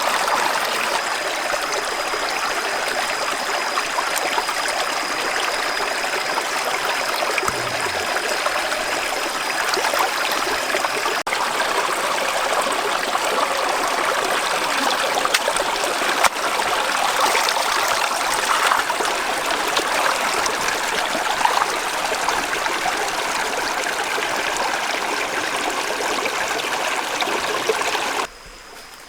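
Steady rush of a flowing stream. It cuts off suddenly near the end.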